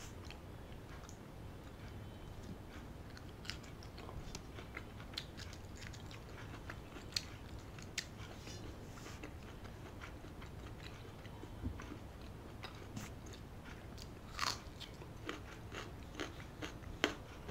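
Close-miked chewing and biting of food eaten by hand, heard as scattered small mouth clicks and smacks at an uneven pace, the most prominent about three-quarters of the way in and near the end.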